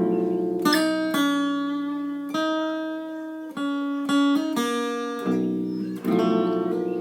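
Acoustic guitar played solo: a strummed chord, then a slow melody of single plucked notes, each left to ring, and another strummed chord near the end.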